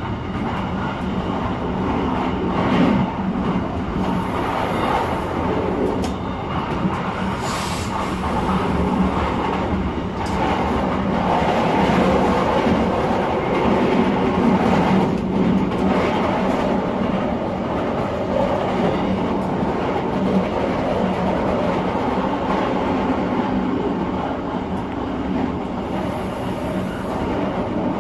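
Passenger train running at speed, heard from inside the carriage: a steady rumble of wheels on the rails, with a few sharp clicks along the way.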